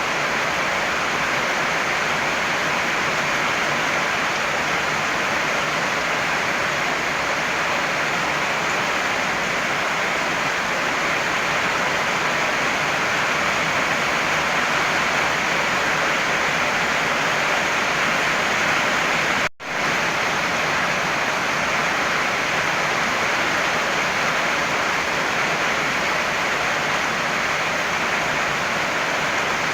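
Heavy rain falling steadily, an even hiss with no thunder. It cuts out for an instant about two-thirds of the way through, then carries on unchanged.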